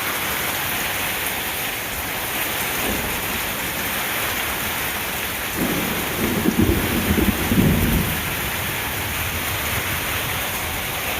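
Heavy rain pouring down steadily, with a low rumble of thunder about halfway through that lasts two or three seconds.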